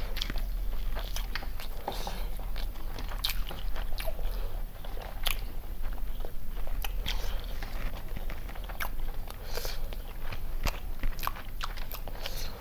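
Eating sounds of country chicken biryani being chewed and bitten, with irregular sharp crunches and clicks throughout.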